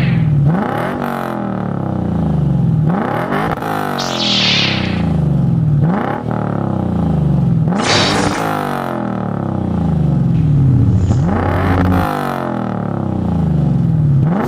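2008 Lexus IS F's 5.0-litre V8 through a custom 3-inch cat-back exhaust and Injen intake, revved hard over and over. The pitch climbs quickly about every two to three seconds, then sinks back more slowly before the next rev.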